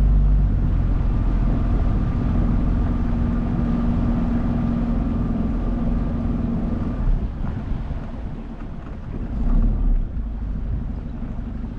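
A 9.8 hp outboard motor running steadily on a small boat, with a steady whine over the drone; about seven seconds in the whine stops and the sound drops a little quieter, with a brief louder rush near the end.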